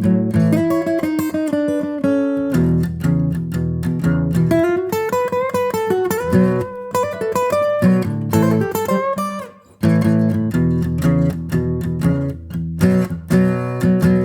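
Acoustic guitar music: plucked and strummed notes over a steady bass line, with a short break just before the tenth second.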